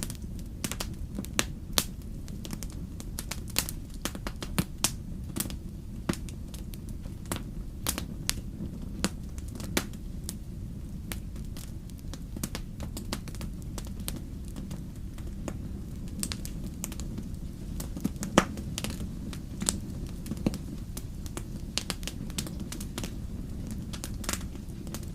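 Wood fire crackling: irregular sharp pops and snaps of burning firewood over a steady low background noise.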